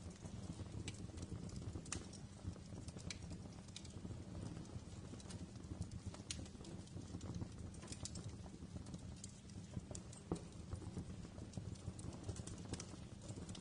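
Wood fire crackling in a fireplace: irregular sharp pops and snaps, several a second at times, over a steady low rumble of the burning fire.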